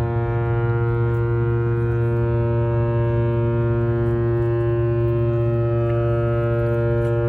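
Great Lakes freighter James R. Barker's horn sounding one long, steady blast, a deep low tone under a stack of higher ones, as part of its master salute on arriving in port.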